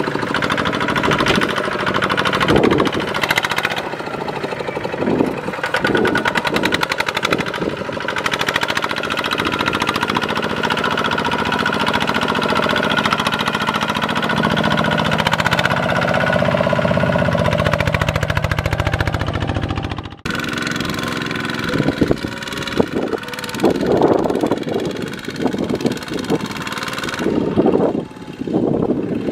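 Single-cylinder diesel engines of Kubota walking tractors running under load in deep mud, with a rapid, even firing beat. The sound breaks off for a moment about two-thirds of the way through, then carries on.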